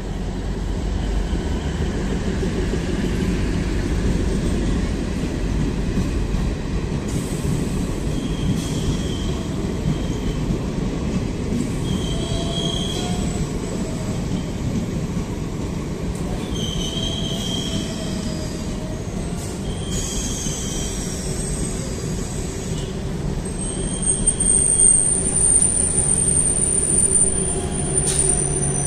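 DEMU (diesel-electric multiple unit) passenger train rolling slowly into the station past the platform: a steady rumble of wheels on rails, broken by short metallic squeals every few seconds. It grows louder near the end, where a long high squeal sets in as the train slows.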